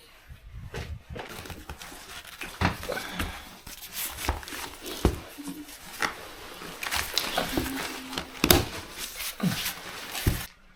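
Things being handled in a small room: a run of irregular knocks and clatters over rustling, cutting off abruptly near the end.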